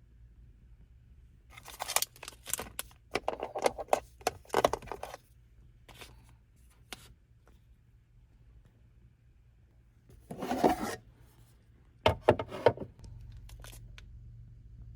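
Small objects and packaging being handled by hand: three bunches of rustling, scraping and sharp clicks, the first lasting a few seconds.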